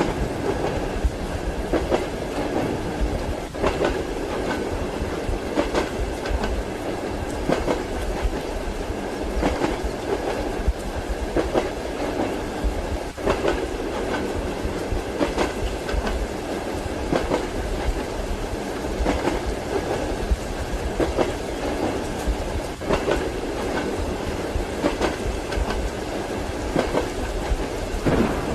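Train wheels clacking over rail joints, with repeated clacks about once a second over a steady rolling rumble.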